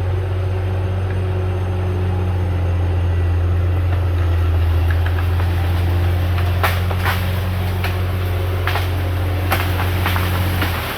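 Diesel engine of a CAT D6R XL bulldozer running steadily at a low, even pitch, with a few sharp knocks or clanks in the second half.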